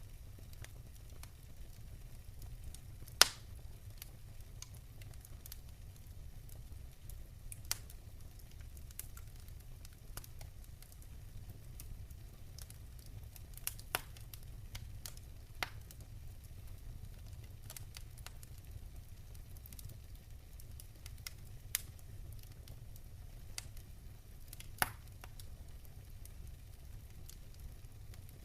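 Wood fire crackling softly, with a few sharp, scattered pops, the loudest about three seconds in, over a low steady rumble.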